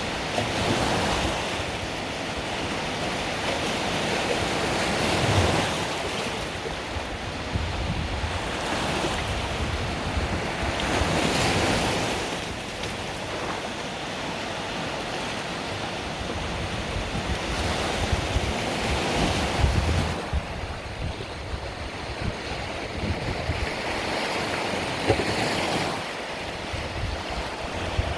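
Mediterranean waves breaking and washing on the shore, the surf swelling and easing every five or six seconds, with wind buffeting the microphone.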